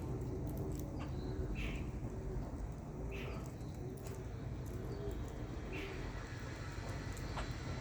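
Birds calling: a run of soft, low, short notes repeating under three louder, higher calls spaced a second or two apart, over a steady low background rumble.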